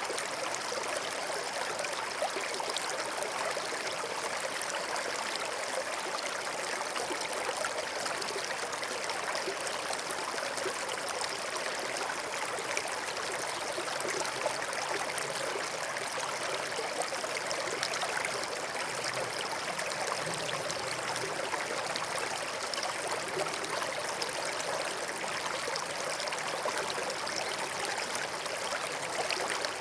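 A small stream running and trickling over stones, a steady babbling water sound.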